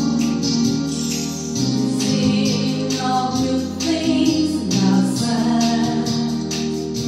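A woman singing over a keyboard backing of programmed accompaniment with a steady beat.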